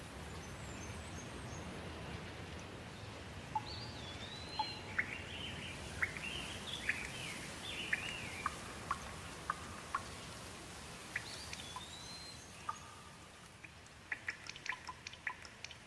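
Songbirds singing a run of whistled, up-and-down gliding phrases and chirps over a steady hiss of rain; the rain fades near the end, where a quick patter of water drips takes over.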